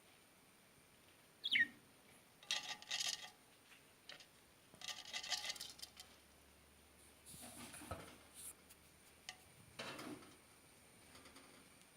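Pet lovebirds chirping and chattering: one sharp, falling chirp about a second and a half in, then short bursts of chatter. In between there is some scratchy rustling.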